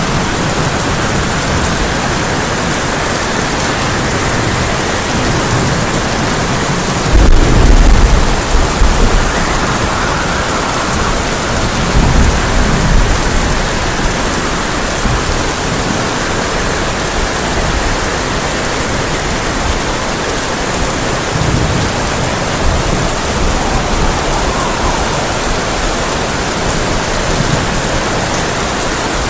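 Heavy rain falling steadily on a tin roof, with thunder: a loud roll of thunder about seven seconds in and a shorter rumble about five seconds later.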